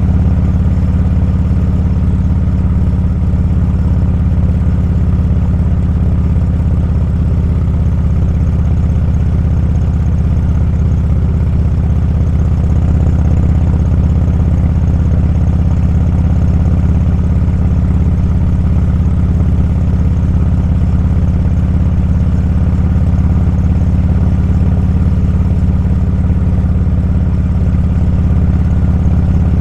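Motorcycle engine running steadily at cruising speed: a low, even drone with no change in pitch.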